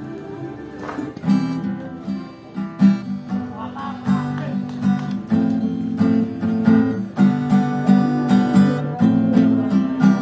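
Acoustic guitar strummed in chords with a steady rhythm, the strokes growing stronger about a second in; an instrumental passage with no singing.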